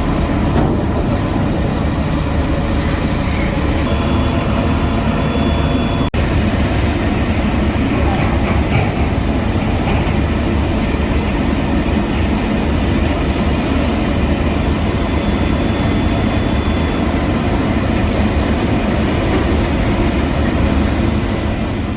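Heavy diesel road-construction machinery running steadily, with most of the sound low-pitched. The sound drops out for an instant about six seconds in.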